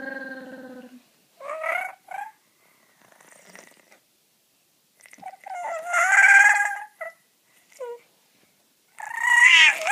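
Throat noises: a series of pitched, rasping vocal calls that rise and fall. The longest and loudest comes about halfway through, and a rising one comes near the end.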